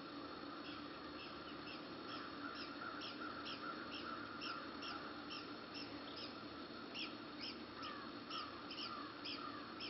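Red-cockaded woodpeckers calling: a steady run of short, high chips, about three or four a second, with lower calls joining near the end.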